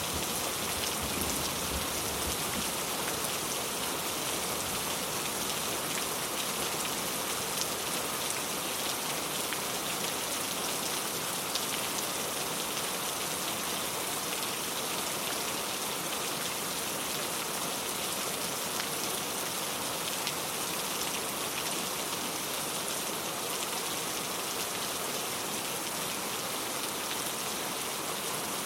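Steady heavy rain pattering on a surface, a dense even hiss of drops.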